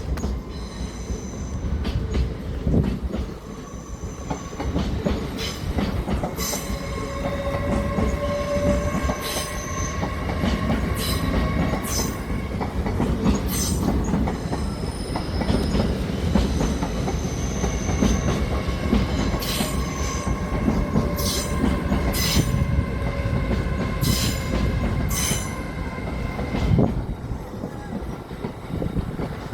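A train running through a railway station with a steady low rumble, its wheels squealing in high tones that come and go, and repeated clicks as the wheels pass over rail joints and points.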